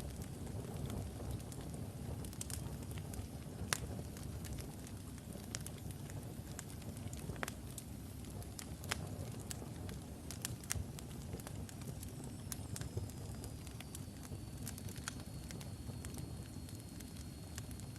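Wood fire of burning logs in a fireplace: a steady low rumble of flames with irregular sharp crackles and pops. A faint high whistle, sliding slightly downward, comes in about two-thirds of the way through.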